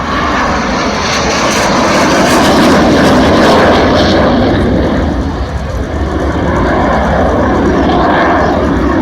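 Hawker Hunter jet fighter flying past: a loud, steady rush of jet noise that is loudest about three to four seconds in, then eases a little and holds.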